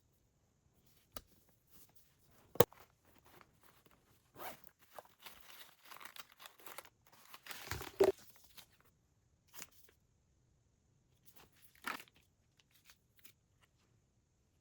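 Household items being handled: rustling and crinkling, like paper or plastic, with a sharp click a few seconds in and scattered knocks and clicks.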